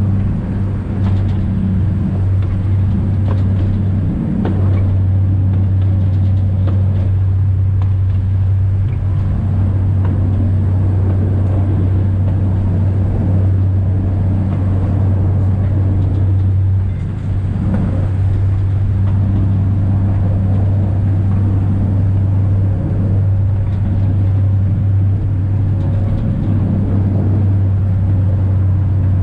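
Alishan Forest Railway diesel train running, heard from the driving cab: a steady low engine drone with rattles and light clicks from the wheels and track. The level dips briefly about two-thirds of the way through.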